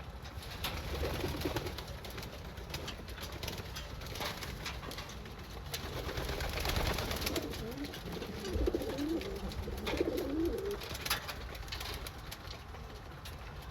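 Pigeons cooing in low warbling bouts: one about a second in, several between about six and eight seconds, and another near ten seconds. A few sharp clicks are scattered among the calls.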